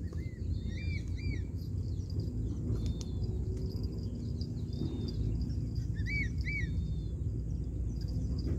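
Birds calling: short arched chirps, a few right at the start and a pair again about six seconds in, over a steady low rumble.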